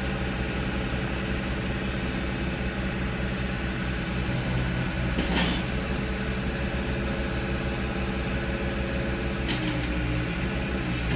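Komatsu PC50UU-2 mini excavator's diesel engine running steadily, with a brief noisy burst about halfway through and a shift in the engine note near the end.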